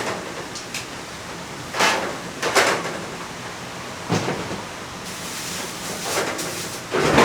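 About six short knocks and thumps at uneven intervals, the last one longer and the loudest, over a steady background hiss.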